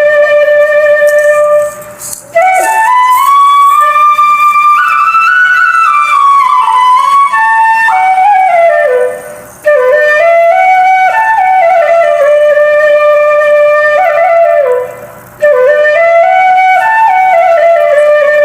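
Flute music: a single melody played in long phrases, with brief pauses about two, nine and fifteen seconds in.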